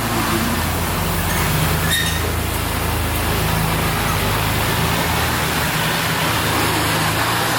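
2001 BMW M Coupe's 3.2-litre straight-six idling steadily after a cold start.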